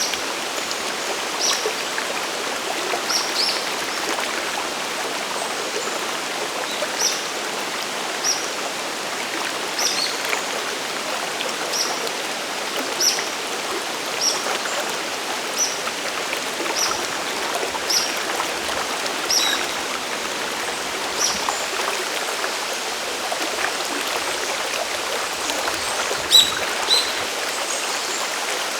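Mountain stream and waterfall water rushing steadily, with short high ticks recurring about once a second over it.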